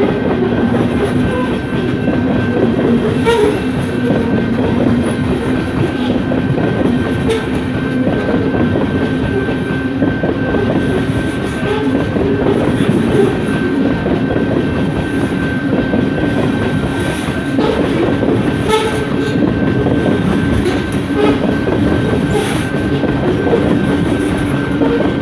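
Coal cars of a Canadian Pacific freight train rolling past close by: a steady rumble of steel wheels on rail with scattered clacks over the rail joints, and a steady high tone running underneath.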